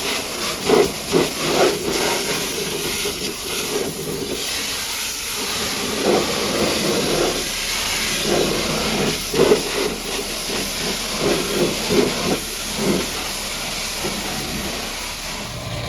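High-pressure washer jet hissing steadily as it sprays the truck, with uneven louder surges as the spray strikes different surfaces.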